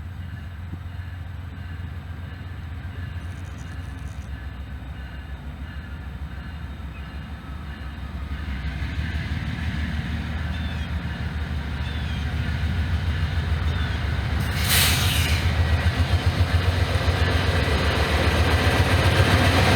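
Norfolk Southern train's diesel locomotives approaching, a low engine rumble growing steadily louder, with a short hiss about fifteen seconds in.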